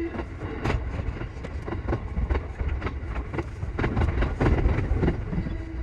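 E233 series 7000 electric train running, heard from the cab: a steady low rumble with sharp, irregular clicks of the wheels passing over rail joints.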